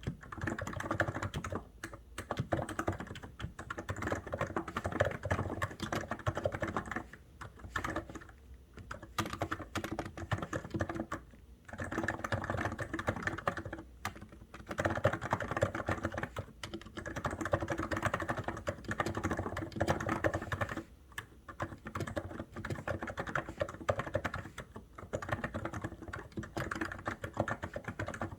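COX Endeavour mechanical keyboard being typed on in fast, continuous runs of keystrokes, broken by short pauses every few seconds.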